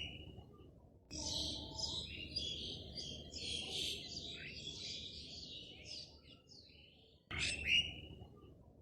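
Small birds chirping and twittering, a dense tangle of high calls for several seconds, then a few quick rising calls near the end.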